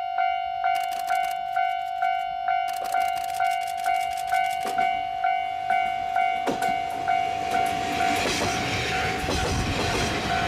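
Level-crossing warning bell ringing about twice a second while a diesel railcar comes up and runs past. Its wheel and engine noise builds from about six seconds in and is loudest near the end.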